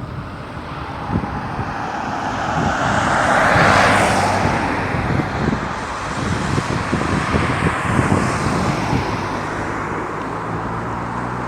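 Road traffic: a motor vehicle passes close, loudest about four seconds in, followed by the steady rumble of traffic and an engine hum.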